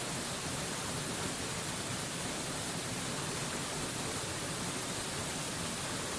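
Waterfall rushing steadily: an even, unbroken hiss with no changes in level.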